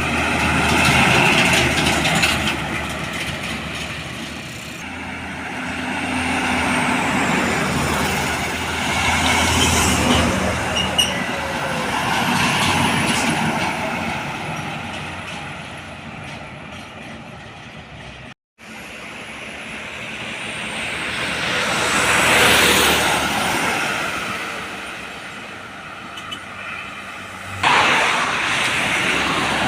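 Heavy trucks driving past on a road, their diesel engines and tyres rising and fading as each one passes. The loudest passes come about a second in, about ten seconds in and about twenty-two seconds in. A brief dropout and a sudden jump near the end mark cuts between clips.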